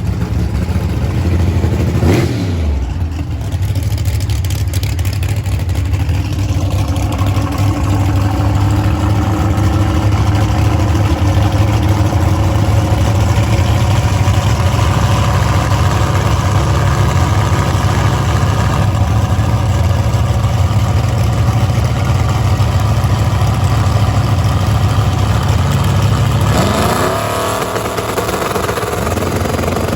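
Race vehicle's engine running at a steady speed for a long stretch, with a brief sweep in revs about two seconds in and the revs rising again near the end.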